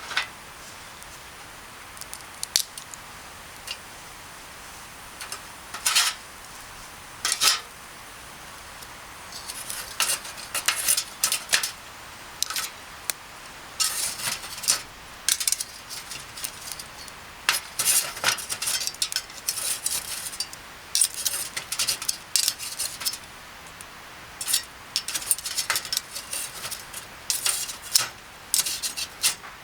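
Utensils clinking and scraping against cookware. A few separate clinks come at first, then busier runs of short clinks from about ten seconds in.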